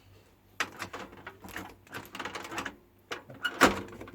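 Clicking and clattering from hands working at a microwave oven, most likely the door being opened and the food taken out after a test run. A single sharper knock comes near the end.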